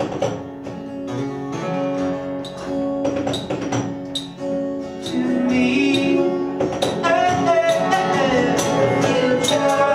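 Acoustic band music played in a bathroom: strummed acoustic guitar with tambourine hits, and a voice singing from about seven seconds in.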